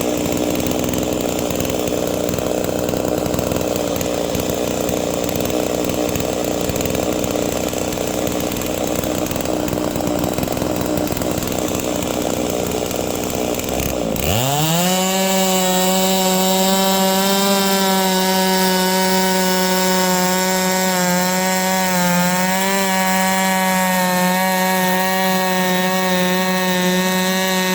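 Holzfforma G660 98.5cc big-bore two-stroke chainsaw ripping a log on a Norwood PM14 chainsaw mill, running under load with a rough, noisy cutting sound. About halfway through, the cutting noise drops away and the engine pitch climbs quickly to a steady high whine, the saw running free of the wood at full throttle.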